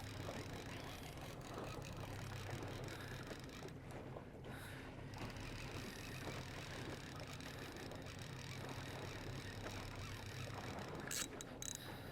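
Boat motor running steadily at low speed: a low, even hum under water and wind noise. There is a brief rattle about eleven seconds in.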